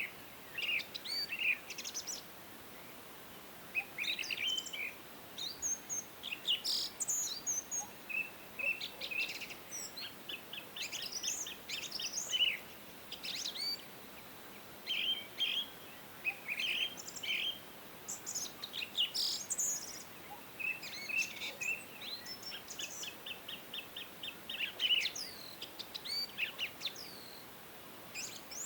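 Several songbirds singing and chirping: short high chirps, rapid trills and whistled phrases in overlapping bouts with brief pauses, over a faint steady hiss.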